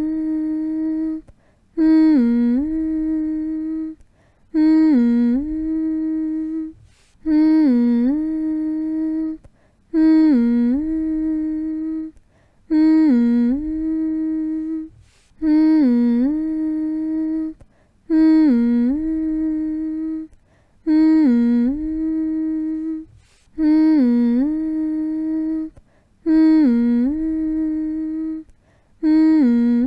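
A person's voice humming one low note over and over: each hum opens with a short dip in pitch that rises back, is held steady for about two seconds, then breaks briefly before the next, at an even pace of about one hum every two and a half to three seconds.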